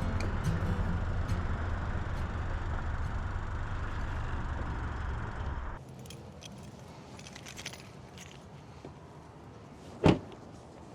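A vehicle running, heard from inside, with a steady low rumble that cuts off abruptly about six seconds in. Then small clicks and a jingle of keys, and one sharp loud thud of a car door shutting about ten seconds in.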